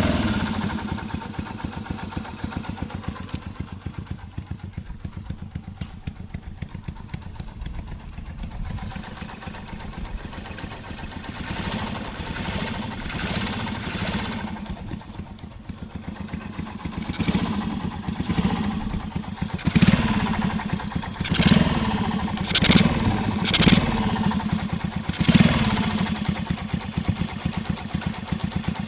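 Bored-up Honda Little Cub's single-cylinder four-stroke engine running at idle with a fast, even clatter, blipped briefly about five times in the second half. This is the abnormal engine noise that persists after a fresh tappet adjustment and a new cam chain tensioner push rod head and spring.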